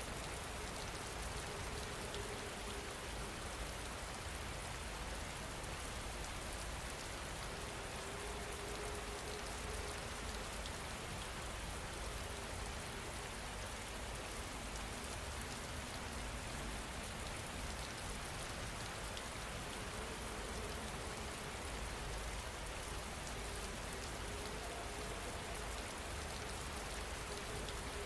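Steady rain falling, an even, unbroken hiss of drops hitting a surface.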